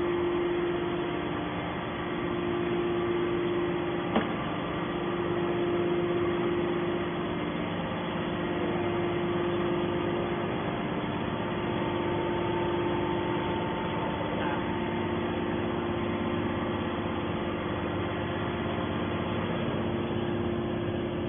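Hydraulic baler's electric motor and pump running, a steady hum. A single sharp click comes about four seconds in.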